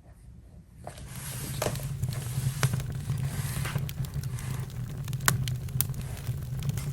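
Campfire crackling, with sharp pops and snaps over a steady hiss and low rumble; it comes in about a second in after a near-quiet start.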